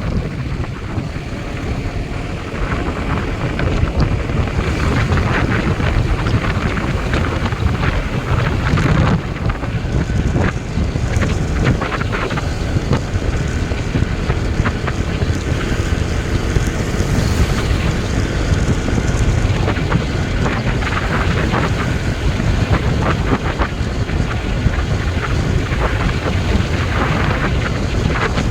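Loud wind buffeting the microphone.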